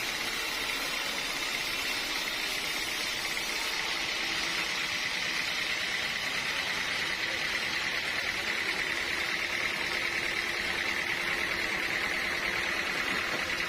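Sawmill machinery running steadily, with a faint steady hum that joins about halfway through.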